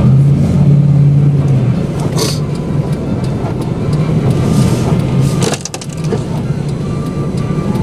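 Car driving noise heard from inside the cabin: a steady low engine hum over road and tyre noise, dipping briefly about two-thirds of the way through. A faint repeating high beep comes in near the end.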